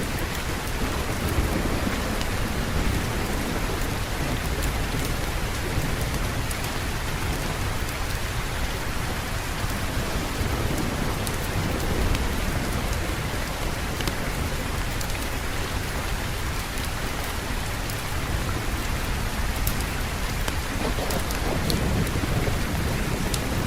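Steady heavy rain with a low rumble of thunder underneath, and scattered sharp ticks.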